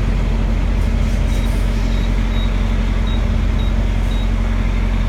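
A semi truck's diesel engine idling with a steady low drone, over which come short high beeps, one about every half second: a fuel pump keypad sounding as numbers are keyed in.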